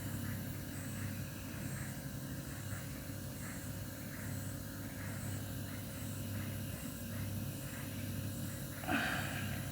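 Refrigerator compressor, rigged as an air compressor, running with a steady low hum while it pumps air into a motorcycle tyre. A short louder burst of noise comes near the end.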